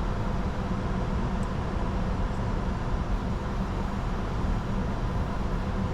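Steady cockpit noise of a Bombardier Challenger 605 business jet in descent: an even rush of airflow and engine noise with a strong low rumble and faint steady hum tones.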